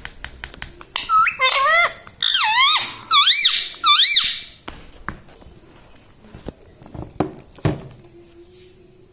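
Ringneck parakeet giving a run of loud, shrill squawks in four quick bouts, each with a rapidly wavering pitch. A quick series of clicks comes just before, and a few scattered taps follow.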